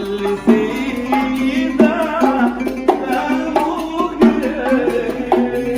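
Arabic music ensemble playing an instrumental passage: melodic instruments carry a gliding, ornamented tune over regular hand-drum strokes.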